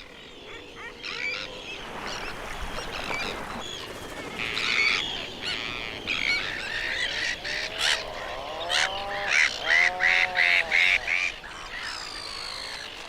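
Seabird colony calls: a chorus of bird calls, busiest about eight to eleven seconds in, with quick chirps over several arched, honking calls.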